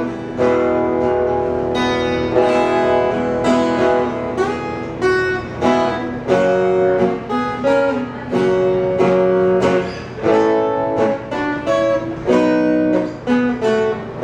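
Instrumental break of a song played on a solo plucked string instrument, with chords and single notes picked and strummed, each starting with a sharp attack.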